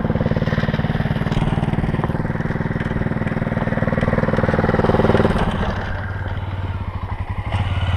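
Motorcycle engine running steadily, its rapid firing pulses even. About five seconds in the sound drops to a lower, quieter note.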